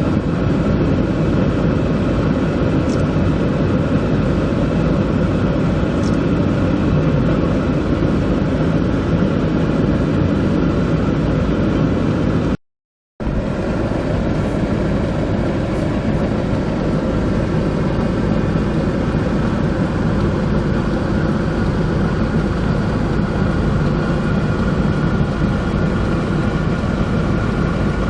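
A motor vehicle on the move, with steady, loud engine and road noise. It drops out briefly about halfway through and then carries on.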